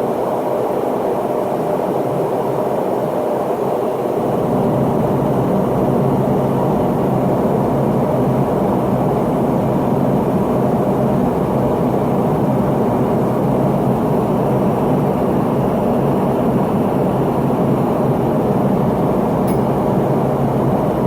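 Steady cabin noise of an MD-83 airliner's interior after takeoff, heard from a forward window seat: a dense low rumble of airflow and the tail-mounted jet engines. It gets a little louder and deeper about four seconds in.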